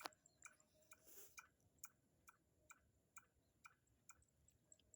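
Near silence with faint, evenly spaced ticks, about two a second.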